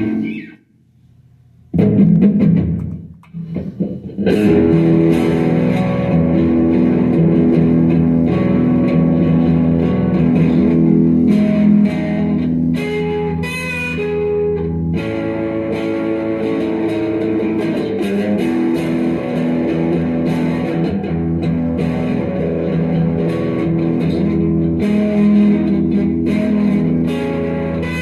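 Guitar playing a song. It drops out about half a second in, comes back in loudly near two seconds, breaks off briefly around three seconds, then plays on steadily.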